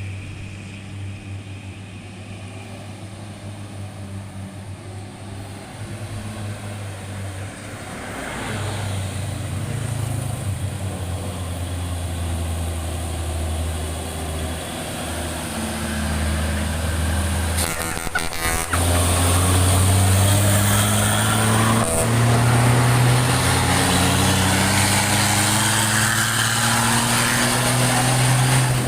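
Hino 500 dump truck's diesel engine pulling hard up a steep climb, growing louder as it comes closer, its pitch rising gradually over the second half. A short sharp clatter breaks in about 18 seconds in.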